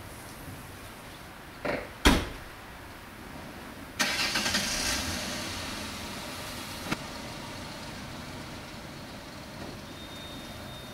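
A thump or two, like a vehicle door shutting, then a truck engine starts suddenly about four seconds in and settles to a steady idle.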